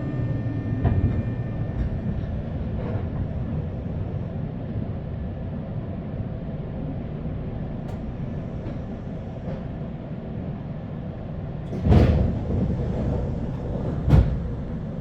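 Inside a JR West 201 series electric train car: a whine of steady tones over the running rumble fades out within the first second or so, leaving a steady low rumble. Near the end come two sudden loud thumps, about two seconds apart.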